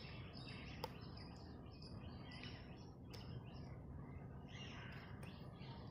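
Faint outdoor background with birds chirping here and there, and a single soft click about a second in.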